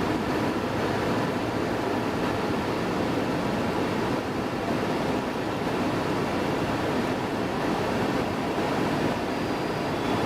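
Steady rushing wind and tyre noise of the Rimac Nevera electric hypercar at speed, without any engine note.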